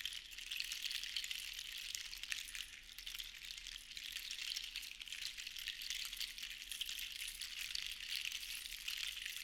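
Seashells rattling together as they are shaken or swirled, making a dense, crisp clatter of many tiny clicks that swells and eases in slow waves.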